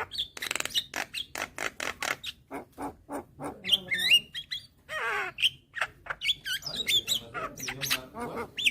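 Javan myna (jalak kebo) calling in a rapid jumble of sharp clicks, short whistled notes that bend up and down, and a harsh rasping note about five seconds in.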